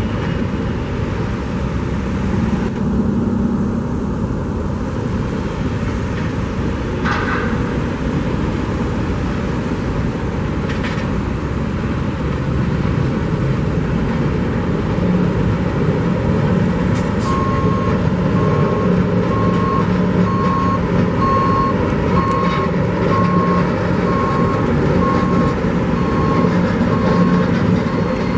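Heavy construction vehicle engine running, with a back-up alarm beeping at a steady pace, about once a second, from a little past halfway on.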